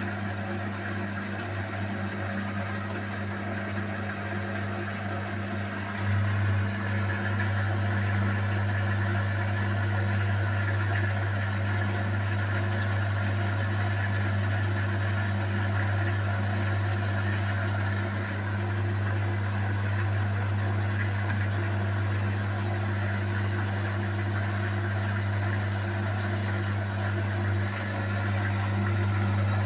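Beko WMY81283LMB2 washing machine in its final spin with an unbalanced load of curtains, the motor and drum running with a steady hum that steps up in level about six seconds in.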